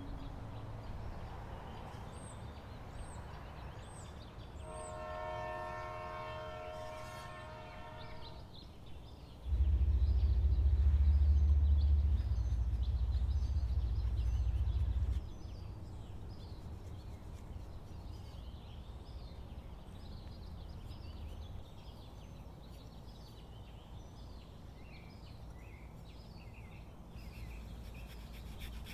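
A horn sounds once, a steady multi-note chord held for about three seconds. It is followed by a loud low rumble lasting about six seconds, with faint high chirps over a low background.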